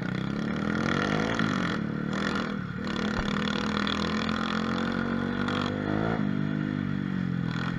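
Mini moto (pit bike) engine revving hard while riding. Its pitch climbs, drops back about a second and a half in, climbs again and holds high, then falls away about six seconds in.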